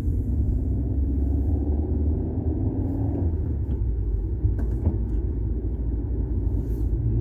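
VW Golf 6 TSI petrol engine running as a steady low rumble, with a droning hum whose pitch shifts about three seconds in and a couple of faint clicks near the middle. The owner judges the engine noises normal.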